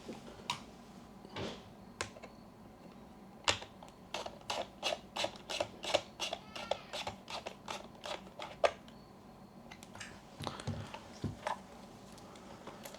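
A run of small, light metallic clicks and scrapes, about four a second in the middle, with a few duller knocks near the end: a battery and its threaded metal battery cover being fitted into a Yashica Electro 35 GSN camera body.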